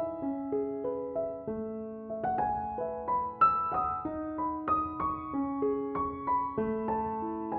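Soft, slow piano music: gentle melodic notes over held bass notes, each note struck and left to ring.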